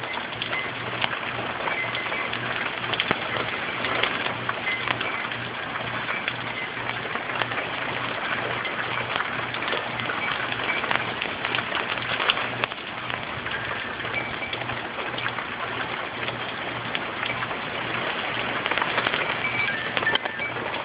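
Tropical-storm rain falling steadily, with many small drop ticks pattering on hard surfaces. A low steady hum runs underneath.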